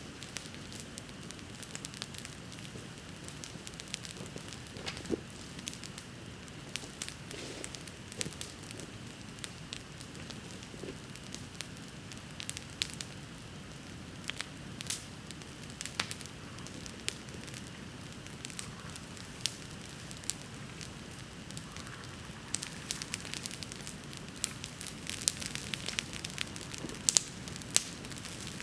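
Wood bonfire burning: a steady low hiss with irregular crackles and sharp pops, the pops coming more often and louder in the last several seconds.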